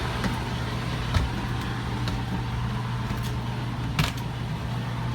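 A steady low machinery hum aboard a motor yacht, with a light knock about a second in and another about four seconds in.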